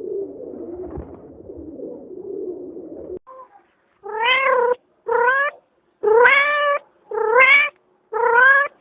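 Domestic cat meowing five times, about once a second, each call rising and then falling in pitch. Before the calls, for about three seconds, there is a low wavering murmur that stops abruptly.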